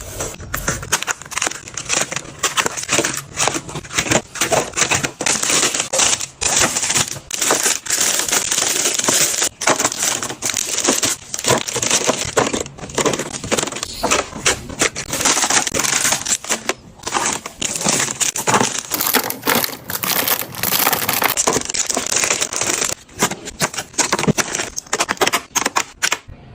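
Plastic packaging crinkling and rustling as it is handled, full of sharp crackles, stopping abruptly near the end.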